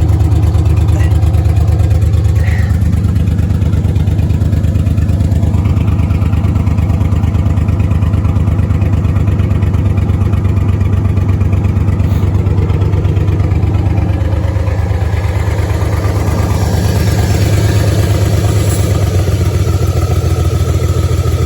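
1987 Dodge Dakota truck engine idling steadily with an even, fast pulsing beat.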